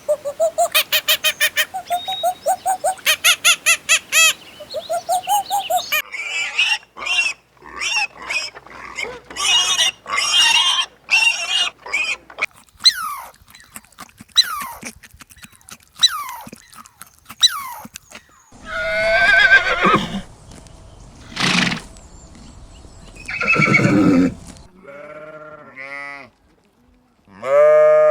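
A succession of farm animal calls: a fast run of short repeated notes at first, then many short chirps and clicks, and a few longer calls of several pitches near the end.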